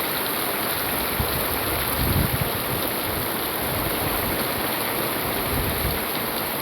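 Steady rain falling, a constant hiss of water, with a brief low rumble about two seconds in.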